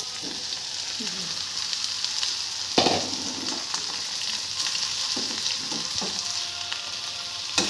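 Leftover rice sizzling steadily as it is stirred and fried in a pan, with small scrapes and ticks from the stirring and one sharp clack about three seconds in.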